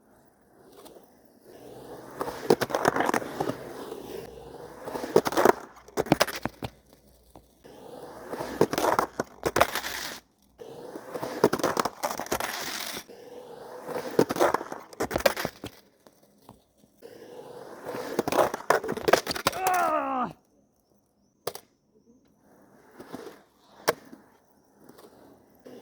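Skateboard in repeated runs: wheels rolling up to a ledge, then sharp clacks as the board pops, hits the ledge, grinds and lands, about five times. Near the end of the fourth run a squeal falls in pitch as the trucks grind. These are frontside smith grind attempts.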